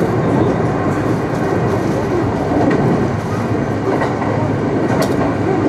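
Kintetsu Nara Line rapid express train running at speed, heard from inside the passenger car: a steady rumble of wheels on rail, with a sharp click about five seconds in.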